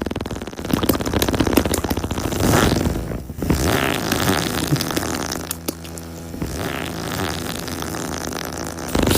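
Dirt bike engine sputtering with a rapid rattling pulse, settling into a steadier pitched hum about halfway through.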